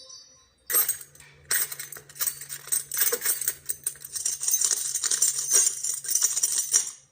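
Rapid, irregular clinking and clattering of small hard objects, metal and crockery knocking together, over a faint steady low hum. It starts about a second in and stops just before the end.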